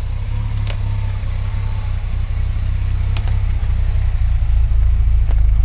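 Old Toyota flatbed truck's engine running as it drives, a steady low rumble that grows louder in the second half, with a few sharp knocks.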